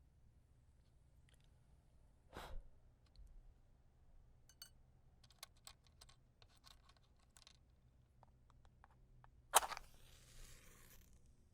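A brief scrape about two seconds in and a scatter of small clicks and taps, then a wooden match struck sharply near the end, its flare hissing for about a second and a half before fading.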